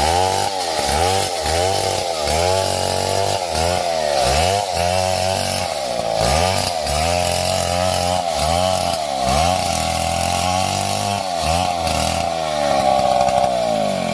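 Two-stroke chainsaw running at high revs while cutting wood, its engine pitch dipping and climbing back about once a second. Near the end it holds a steady high pitch.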